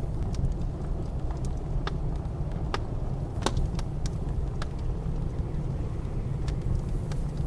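Wood fire crackling, with scattered sharp pops at irregular intervals, over a steady low rumble of blizzard wind.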